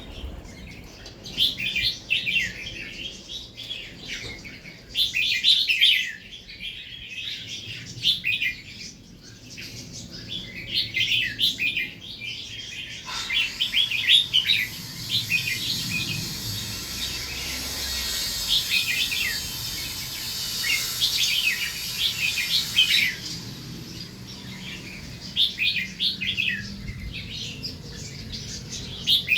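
Red-whiskered bulbuls singing at each other in short, bright, quickly repeated chirping phrases. A steady hiss sits under the song for several seconds in the middle.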